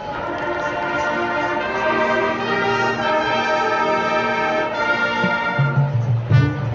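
Marching band brass playing sustained chords that swell louder, with short punchy low notes near the end.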